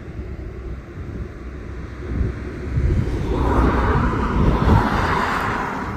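Vehicle noise that builds from about halfway through and peaks near the end, over a low rumble of wind buffeting the microphone.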